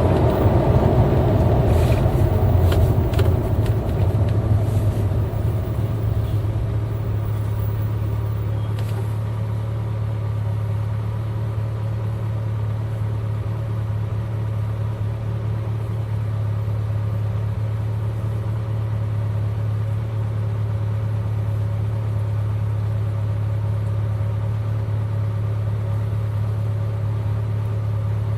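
A V8 car engine running with a steady, low drone. It is louder for the first few seconds, then settles to an even pitch and level for the rest.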